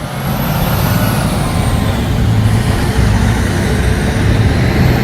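Oshkosh heavy-haul truck's Detroit two-stroke diesel engine running hard, a loud steady rumble. It swells in at the start, then holds.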